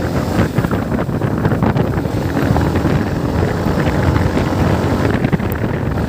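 Motorcycle riding along at speed, engine and road noise mixed with heavy wind buffeting on the microphone.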